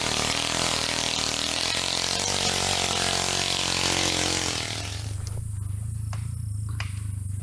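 A motor vehicle engine running with loud rushing noise over it; about five seconds in the rushing noise drops away suddenly, leaving a steady low hum with a few faint clicks.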